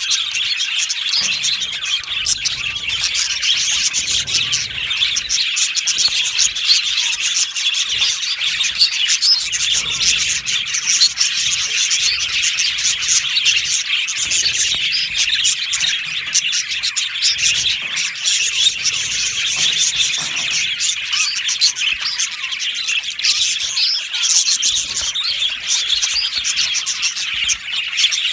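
A flock of budgerigars chirping and chattering continuously, with many birds calling over one another in a dense, unbroken twitter.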